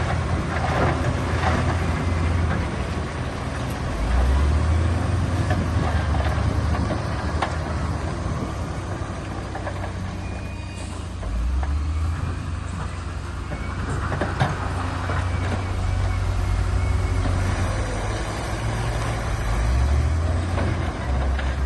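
Heavy earthmoving machine's diesel engine running under varying load, its revs rising and falling, with a few sharp clanks.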